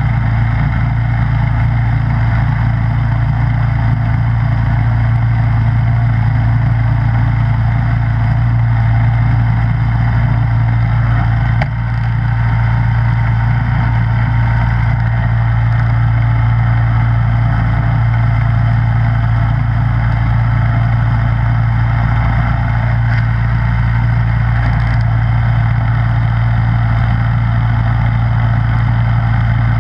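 Snowblower engine running steadily with a constant low hum, a brief click about twelve seconds in.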